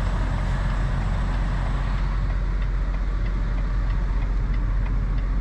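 Semi truck's diesel engine running steadily at low speed, a constant low rumble, as the rig moves slowly into a parking space.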